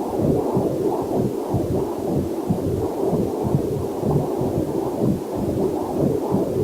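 Fetal Doppler heart monitor sound: a quick, even run of whooshing heartbeat pulses, several a second, with a faint waterfall hiss mixed in beneath.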